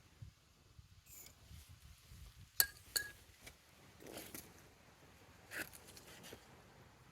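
Two sharp metallic clinks about half a second apart, with quieter scrapes and rustles of handling around them: metal tools or parts knocking together during a wheel change.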